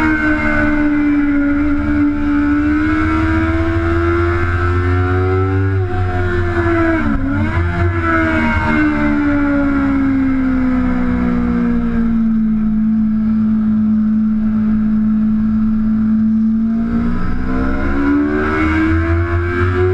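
Sport motorcycle engine at speed, heard from onboard. The engine note climbs, then drops and wavers with quick blips about seven seconds in. It sinks slowly through a long stretch and climbs steeply again near the end as the bike accelerates.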